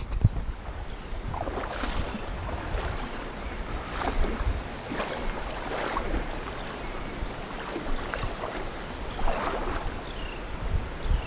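Wind buffeting the microphone and water moving around a kayak, with soft swishes every couple of seconds. A few short, falling high chirps come near the end.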